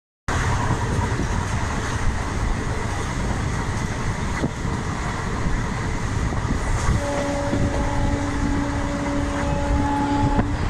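Passenger train running at speed, its rumble and rush heard through an open barred coach window. About seven seconds in, a steady single-pitched tone sounds for about three and a half seconds over the running noise, then stops.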